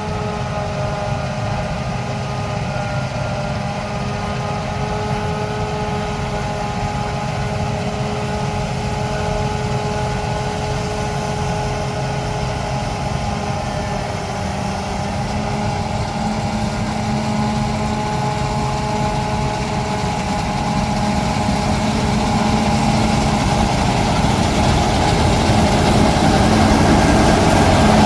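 Heavy farm harvesting machinery running steadily, a diesel engine with a steady whine in it, growing louder through the second half as the machine draws nearer.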